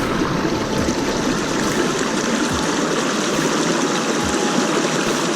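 Running water from a stream: a steady rushing noise.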